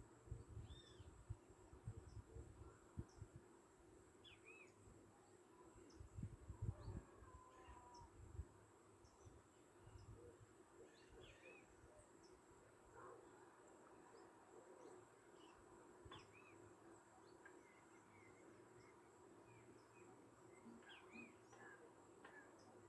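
Faint outdoor birdsong: scattered short chirps and calls from small birds throughout. Low wind rumble buffets the microphone in the first couple of seconds and again around six to eight seconds in.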